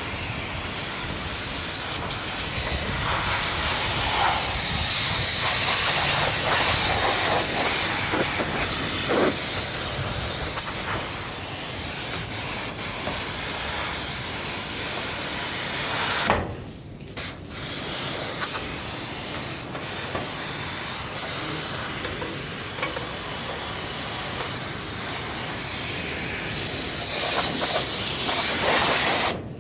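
Water spray hissing steadily as the air conditioner is washed. It stops for about a second around the middle and again just before the end.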